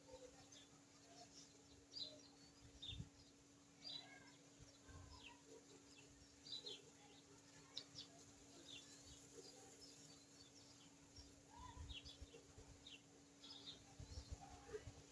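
Faint, scattered short high chirps from small birds, some a few times a second, over a steady low hum, with a few soft low thumps.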